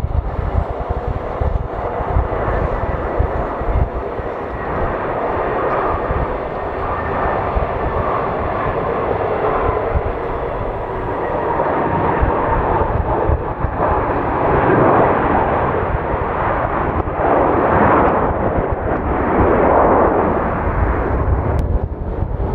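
Jet airliner's engines roaring close by, a steady whine under a broad rush that swells in waves through the second half, with wind buffeting the microphone.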